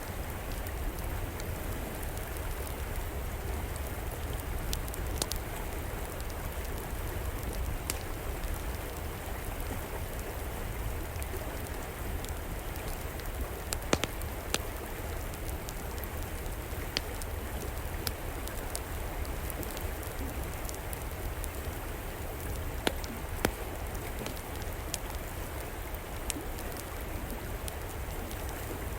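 River water flowing steadily, with an outdoor wood fire crackling over it in scattered sharp pops; two pops stand out, one about halfway through and one later on.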